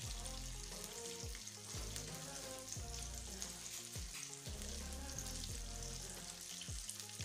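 Chicken wings deep-frying in a pot of hot oil: a steady bubbling sizzle. Background music with a repeating bass beat plays underneath.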